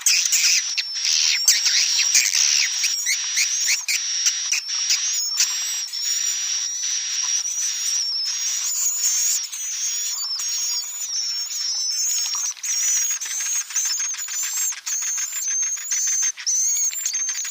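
Edible-nest swiftlet calls, a recording of the kind played to lure swiftlets to nest. It is a dense, unbroken high-pitched twittering of rapid chirps under a wavering thin whistle-like tone.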